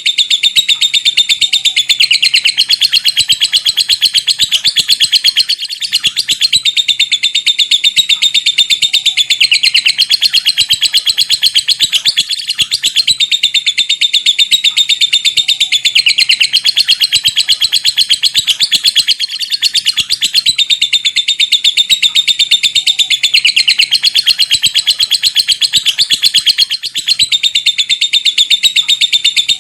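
Lovebird giving its long 'ngekek', a rapid high-pitched chattering trill of very fast repeated notes. It runs on almost without pause, broken only by brief gaps every several seconds.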